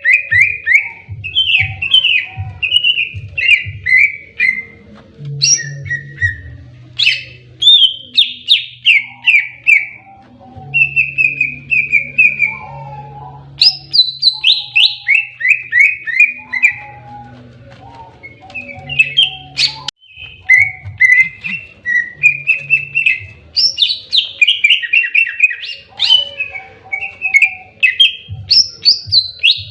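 Green leafbird (cucak ijo) singing in its aggressive 'fighting' style: rapid runs of short notes that sweep downward, repeated phrase after phrase with brief pauses between.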